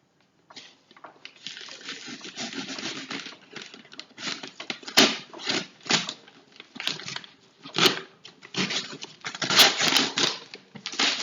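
A shipping package being opened by hand: packaging tearing and crinkling in a run of irregular rasps and scrapes.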